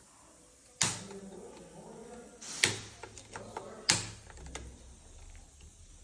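Sharp metallic knocks and clicks of tools and parts handled while a manual gearbox is taken apart: three loud knocks in the first four seconds, with lighter clicks between.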